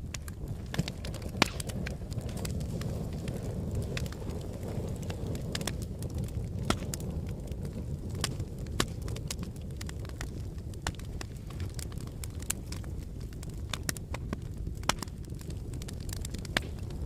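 Wood fire burning in a fireplace: a steady low rumble of the flames with sharp, irregular crackles and pops, a few of them much louder.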